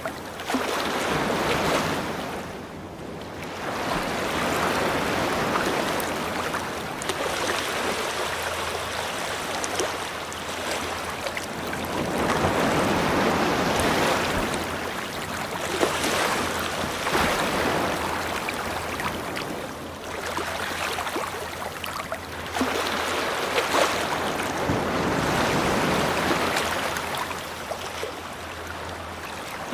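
Ocean waves breaking and washing up a beach, the surf swelling and falling back every few seconds.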